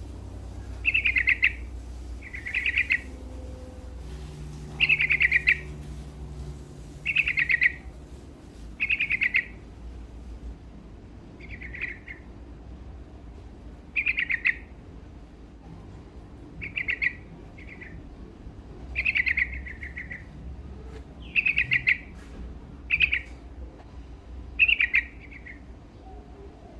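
Yellow-vented bulbul (trucukan) singing: short, quick phrases, each under a second, repeated every one to three seconds.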